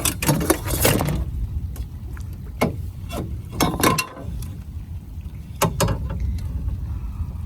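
Scattered sharp knocks and clatter of gear being handled in an aluminum fishing boat during a catfish fight, several in the first second and single ones later, over a steady low rumble.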